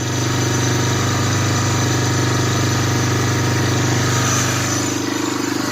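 1985 Honda Big Red 250ES's single-cylinder four-stroke engine idling steadily, just caught after a long, hard cold start from sitting unused.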